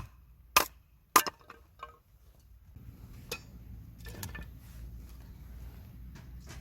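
Glass or ceramic tableware clinking: about five sharp, short clinks with a brief ring in the first two seconds, then two or three softer knocks over a low steady rumble.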